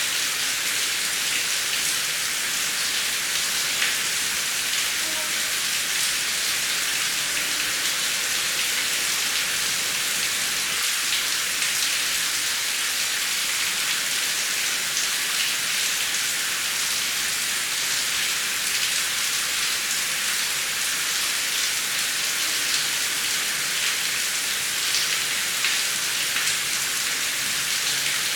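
Heavy rain falling steadily: a dense, even hiss with scattered drops ticking on a surface, and no thunder.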